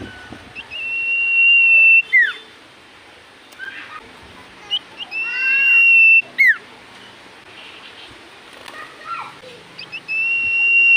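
Common iora singing: a long, steady, high whistle that ends in a quick falling note, twice, with a third whistle starting near the end. Softer chirps come between the phrases.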